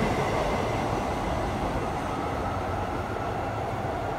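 Namboku Line electric train pulling away from the platform, its running noise fading steadily as it heads into the tunnel.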